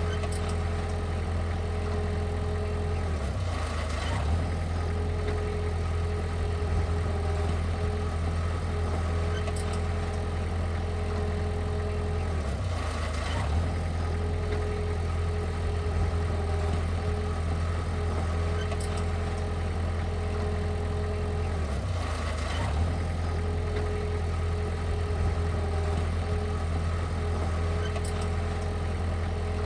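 Heavy-equipment diesel engine running steadily at constant speed, with a brief change in its note about every nine seconds.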